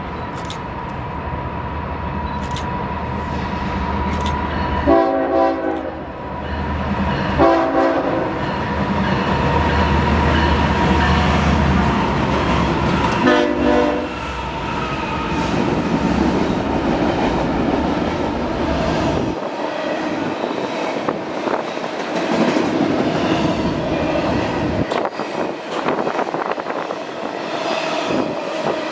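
Diesel freight locomotives sounding their air horn in three blasts, the last the longest, over the low rumble of the engines as they pass. After about two-thirds of the way through, the rumble drops away and the double-stack container cars' wheels roll by on the rails.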